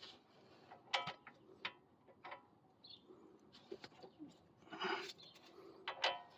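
Hand tools on the car's suspension: a few sharp metallic clinks with a short ring, about a second in, near two seconds, and again near the end, with a rougher scrape of metal handling about five seconds in.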